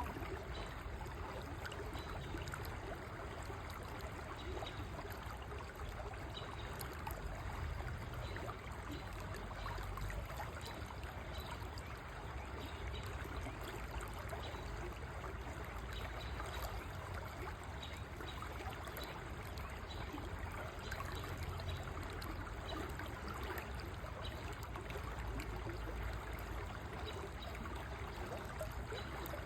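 River water flowing and trickling steadily over rocks, an even, unbroken rush.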